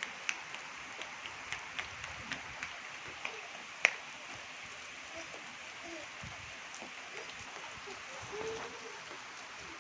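Steady hiss of falling rain, with sharp ticks of drops hitting a nearby surface, about a dozen in the first four seconds and the loudest just before four seconds in.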